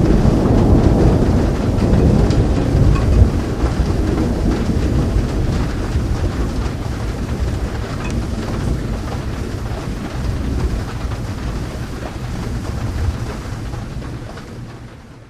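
Long rumbling roll of thunder over steady rain. It is loudest in the first few seconds, slowly dies away, and fades out quickly near the end.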